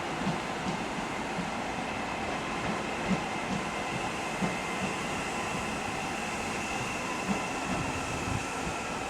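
A Northern Class 331 electric multiple unit pulling out, its wheels knocking softly over rail joints and pointwork over a steady running noise with a faint whine.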